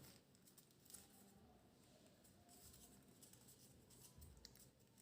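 Near silence, with a few faint rustles and ticks of a paper sheet being folded by hand.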